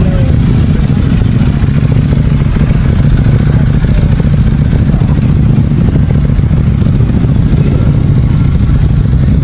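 Many motorcycle engines running together in a steady, loud low rumble.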